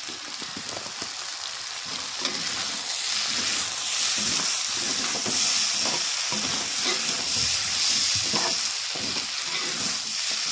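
Rice, potatoes and peas with spices sizzling in a hot kadai while a metal spoon stirs and scrapes through them, the dry frying of the rice before water is added. The sizzle grows louder about two seconds in.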